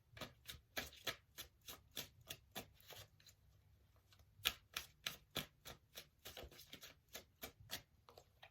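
A deck of tarot cards being shuffled: a quick run of soft card clicks that thins out for a moment about three seconds in, then picks up again with one sharper snap.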